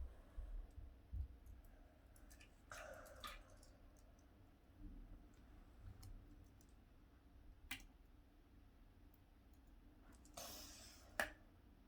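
Near silence with a few faint, scattered clicks and two brief rustles, typical of plastic toy cars and track pieces being handled.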